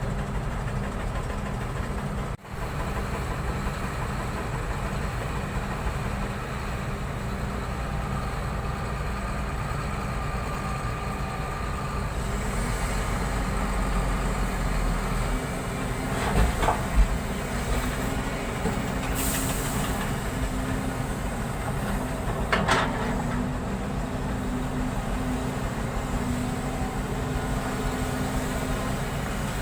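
A heavy vehicle running with a steady low engine rumble, with a couple of clunks and a short hiss partway through.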